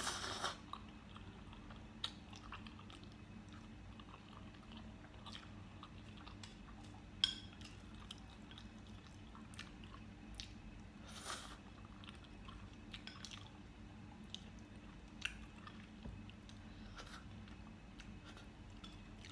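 A person chewing spicy noodles and rice cakes close to a microphone, with soft wet mouth clicks scattered through. A short slurp comes right at the start.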